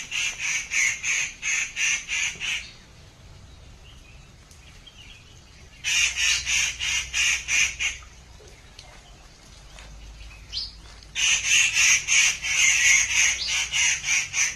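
A bird calling in three runs of quick, evenly repeated sharp notes, about four or five a second, each run lasting two to three seconds with pauses between.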